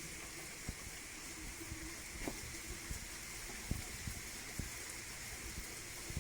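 Steady rain falling, with irregular heavier drops landing close by as soft taps and drips.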